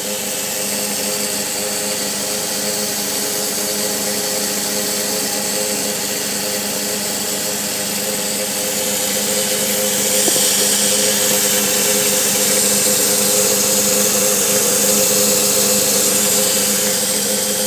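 Subaru Sambar's electromagnetic fuel pump running with a steady mechanical buzz, getting a little louder about ten seconds in. Its operating noise had grown loud at about 50,000 km.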